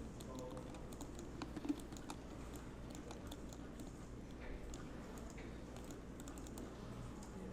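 Irregular computer keyboard keystrokes and clicks, fairly quiet, over a steady low hum.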